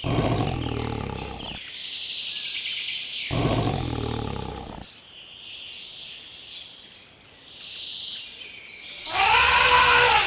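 Two deep animal roars, each about a second and a half long, over continuous birds chirping. Near the end comes a louder pitched call whose pitch rises and then falls.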